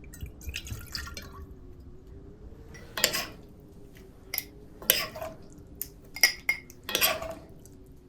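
Utensil clinking and scraping against a pot or bowl of stew, with liquid sloshing, several separate strokes starting about three seconds in.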